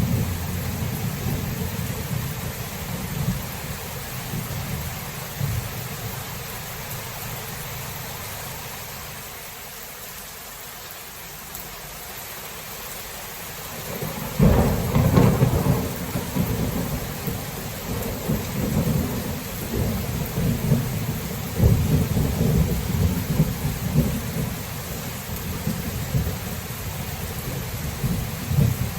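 Steady rain with rolling thunder: low rumbling dies away to a lull, then about halfway through a sudden loud thunderclap breaks into long rolling rumbles.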